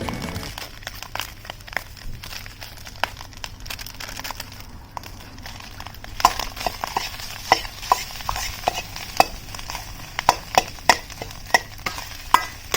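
Cooking over a wood fire in a disc-type fire pit: irregular crackling and sharp pops over a faint hiss. The pops grow louder and more frequent about halfway through.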